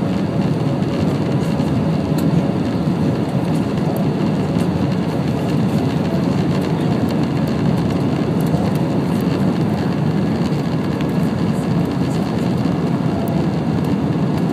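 Steady cabin drone of an Airbus A319 airliner in flight: engine and airflow noise heard from inside the passenger cabin, even and unbroken, with a faint steady hum.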